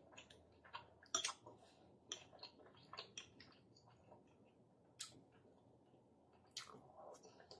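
Close-miked chewing of penne pasta in a creamy sauce: soft wet mouth clicks and squelches, with a few sharper clicks about a second in, at about five seconds and again near the end.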